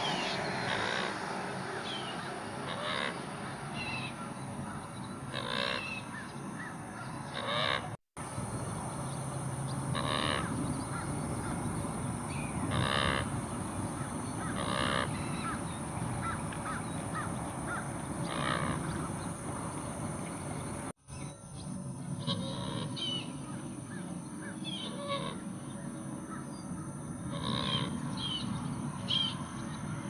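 Birds calling with short, harsh, caw-like calls, repeated every second or two over a steady high hiss. The sound drops out briefly twice, about a third of the way in and again about two thirds of the way in.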